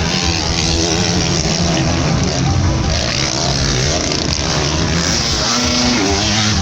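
Motocross motorcycle engines revving, the pitch rising and falling, with one engine climbing in pitch near the end.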